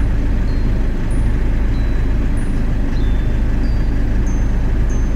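Volkswagen car's engine idling, a steady low hum heard from inside the cabin, with a few faint short high-pitched chirps now and then.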